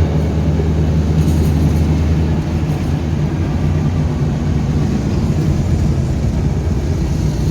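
Car engine running with a steady low drone while driving, its deepest note easing off about two and a half seconds in.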